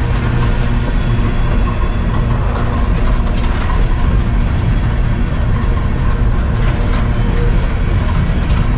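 A CSX unit coal train's cars rolling past close by: a loud, steady rumble and rattle of steel wheels on the rails, with clanking from the cars.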